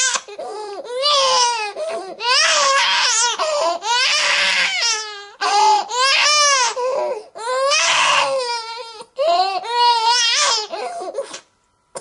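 Baby crying: a string of loud wails about a second long each, rising and falling in pitch, with short catches of breath between. The crying breaks off briefly just before the end.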